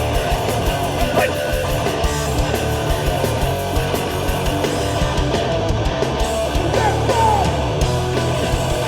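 Hardcore punk band playing live at full volume: electric guitar, bass and drums in a passage between sung lines, with no vocals.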